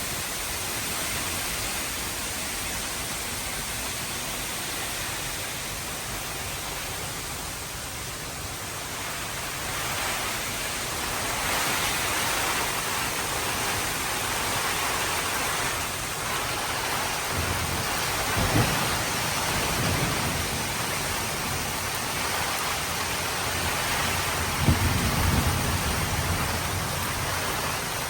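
Heavy rain pouring steadily, growing heavier about a third of the way in. In the second half low rumbles come and go, with a couple of sudden low jolts.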